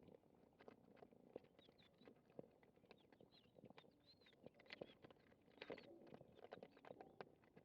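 Faint, irregular clicking and crunching of cats chewing their food, with a few short high chirps of birds in the middle.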